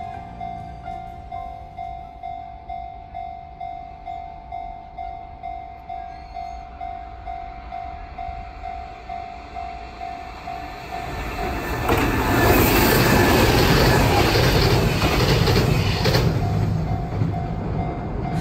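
A Kintetsu Minami-Osaka Line train passes, its noise swelling to a loud rush with deep rumble about two thirds of the way in and easing near the end. Before it, and again as it fades, a steady ringing tone pulses about twice a second.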